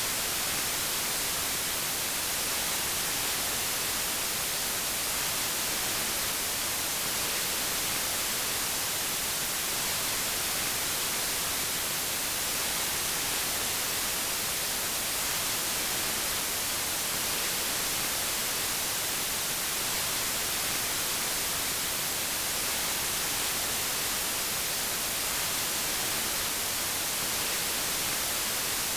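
Steady white noise: an even hiss, brightest in the treble, with no change.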